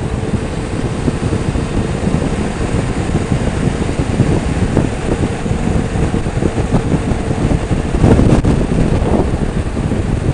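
Motorcycle underway, its engine running under wind rushing over the microphone. The noise gets louder for a moment about eight seconds in.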